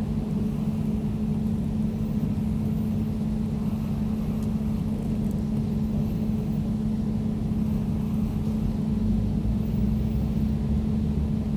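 Air conditioner running steadily: a constant low hum with a fainter, higher tone above it, over a low rumble and a soft rush of air.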